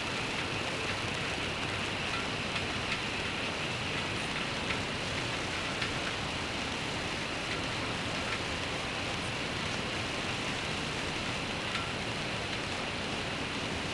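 Steady rain falling, with scattered drips ticking through it.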